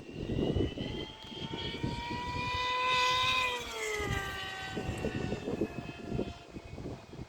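T-750 RC model aircraft's motor whining as the plane flies past. It is loudest about three seconds in, then its pitch drops as it passes and moves away. Wind buffets the microphone throughout.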